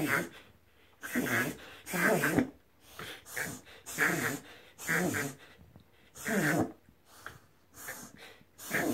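A whippet reverse sneezing: a run of forceful, noisy inhalations through the nose, roughly one a second, with short pauses between. This is the harmless spasm a vet confirmed as a reverse sneeze, not a health problem.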